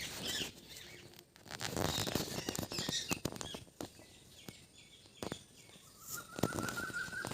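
A landed fish flopping and slapping on the ground, a scatter of irregular taps and thuds, with birds chirping.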